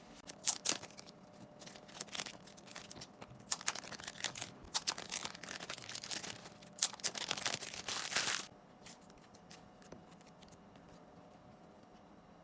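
Card packaging being handled and torn open by hand: a run of short crinkling rustles and rips that stops about eight and a half seconds in.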